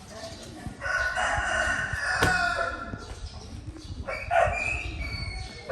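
A rooster crowing twice, each crow a long drawn-out call.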